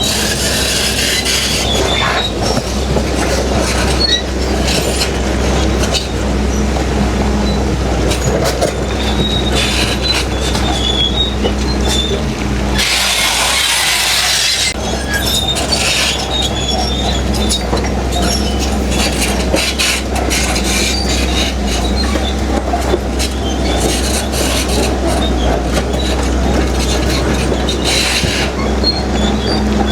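Crawler bulldozer working rock: a steady low diesel drone under the squeal and clank of its steel tracks. About halfway through there is a two-second burst of rushing noise.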